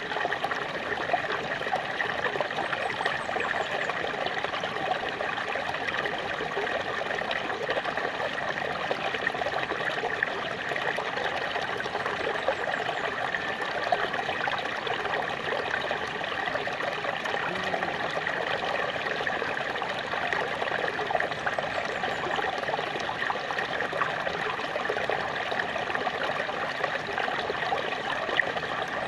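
Small waterfall splashing and trickling in a steady, unbroken rush of water.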